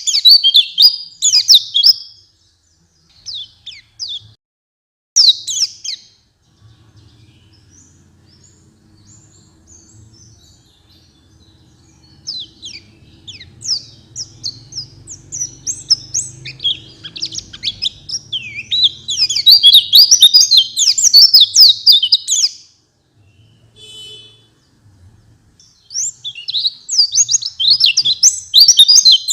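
White-eye (pleci) singing in fast, high twittering phrases broken by short pauses, with a long run of song in the middle and a brief buzzy note after it.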